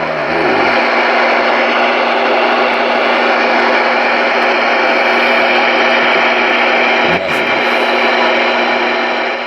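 Steady, loud static hiss from a Connex CX-33HPC1 radio's receiver, with a low hum tone under it and a click about seven seconds in.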